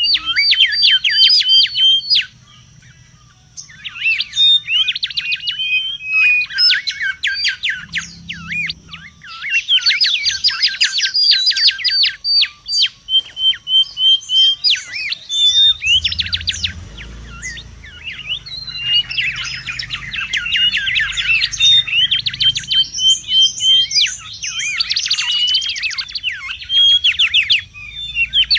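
Mangrove whistler calling in an excited, nonstop bout: fast runs of sharp sweeping notes and short trills, with a brief pause about two seconds in.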